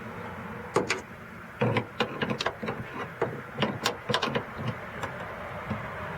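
A string of irregular sharp clicks and knocks, plastic and metal parts of a car door being handled and worked loose by hand and tool, over a steady low background noise.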